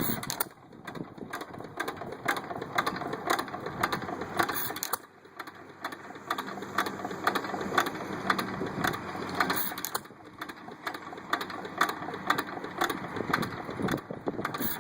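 1 1/2 hp Economy hit-and-miss engine running, with a steady clicking of about two to three beats a second and a louder burst roughly every five seconds.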